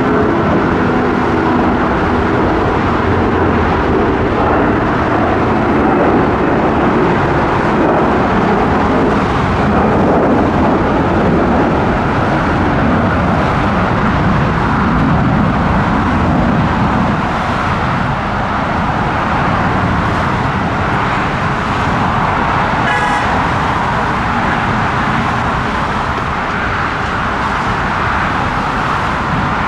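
Jet engines of an Airbus A340-300 airliner running at high power, a loud steady rumble with no let-up. A brief higher tone sounds about two-thirds of the way through.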